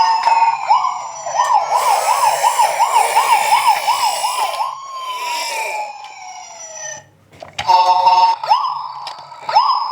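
Emergency-vehicle siren sounds: a fast yelp of about three sweeps a second, then one long falling wail. After a short break come a pulsing tone and rising whoops.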